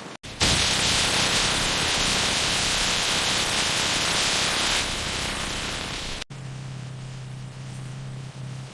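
A loud, steady hiss of noise that cuts off abruptly about six seconds in, followed by a quieter, steady low machine hum.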